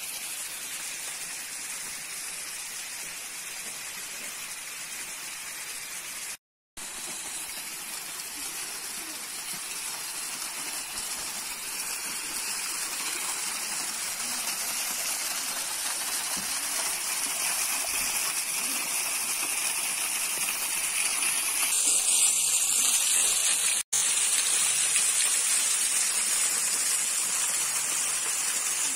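Rushing, gushing water of a stream or waterfall, a steady hiss that grows louder over the first twenty seconds or so and then holds. It cuts out briefly twice.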